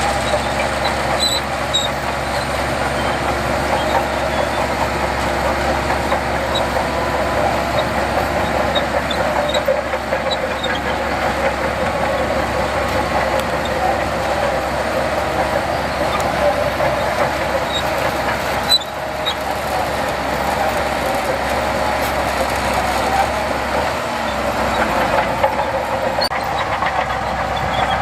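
Heavy diesel earthmoving machinery working, a loud, steady mechanical noise.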